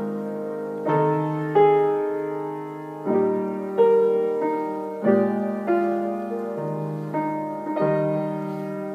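Slow, gentle piano music: chords struck about once a second, each left to ring and fade before the next.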